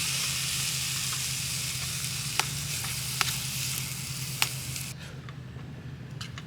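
Butter corn sizzling as it fries in a pan, with a few sharp pops. The sizzle cuts off suddenly about five seconds in, leaving a quieter low hum.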